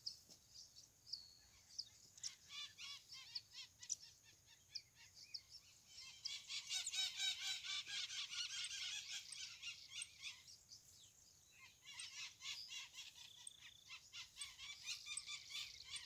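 Birds chirping and calling in a stream of short, high notes, busiest between about six and ten seconds in.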